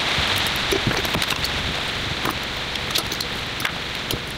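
Steady hiss of rain, with scattered small clicks and taps through it.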